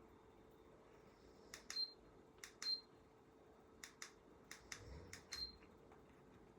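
Sharp clicks in quick pairs, about five pairs over several seconds, several of them followed by a brief high ring.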